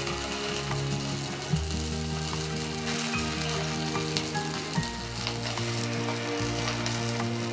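Semolina-potato sticks shallow-frying in a little hot soybean oil in a karahi, sizzling steadily, with light clinks and scrapes of a slotted stainless-steel spatula turning them.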